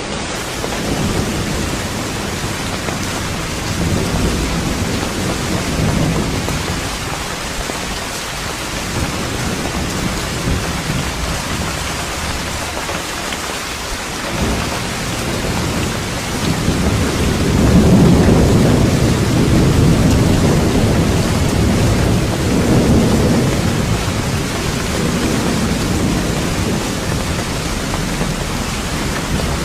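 Thunderstorm: steady heavy rain with rolling thunder, a long low rumble swelling midway and peaking a few seconds later, then another roll shortly after.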